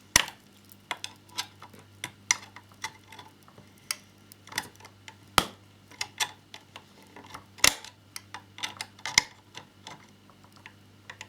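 Light, irregular clicks and taps of a small screwdriver and screws against the plastic and metal parts of a scale model motorcycle as screws are fitted, a few sharper than the rest, over a faint steady low hum.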